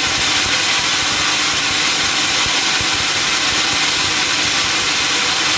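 Sawmill saw and its drive running steadily, giving an even, unbroken noise strongest in the high range.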